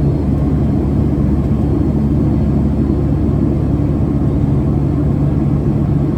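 Steady cabin drone of a Boeing 757-200 in flight: engine and airflow rumble with a low steady hum.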